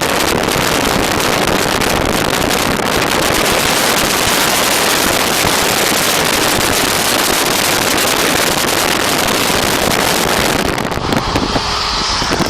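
Loud wind buffeting on the microphone and road roar at speed, heard through an open window of a moving car, easing slightly near the end.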